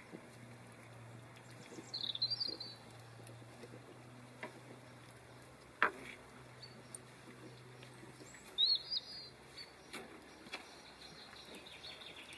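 A small bird chirping outdoors in two short bursts of quick high notes, several seconds apart, over a quiet background with a single sharp click about six seconds in.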